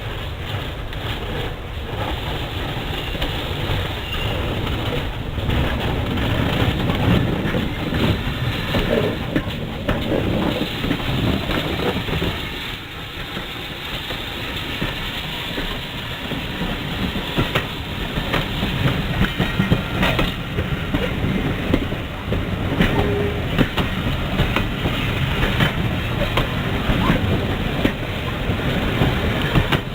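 Heritage railway train running along the track: a steady rumble with frequent clicks and knocks.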